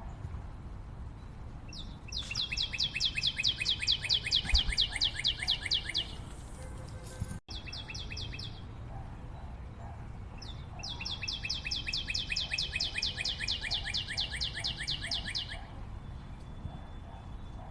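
A bird singing two long, fast trills of sharp repeated notes, about nine notes a second, each trill lasting about four seconds and sinking slightly in pitch. A short burst of the same notes comes between them, just after a brief cut in the sound.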